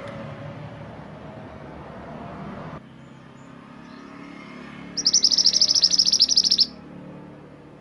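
A mantenan gunung songbird gives one loud, fast, high-pitched trill of rapid notes, starting about five seconds in and lasting under two seconds. Before it there is a background rumble and hiss that drops off suddenly near three seconds in.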